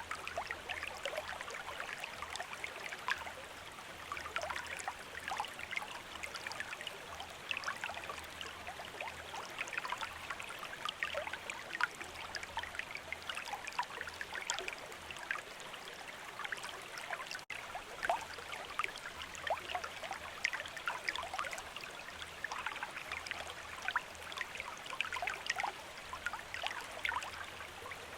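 Running water of a stream, a steady babbling and splashing. A momentary break in the sound about two-thirds through.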